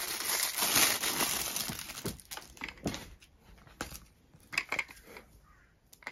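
Plastic vacuum storage bag crinkling and rustling as it is handled. The rustle is dense for about the first two seconds, then breaks into scattered crackles that die away near the end.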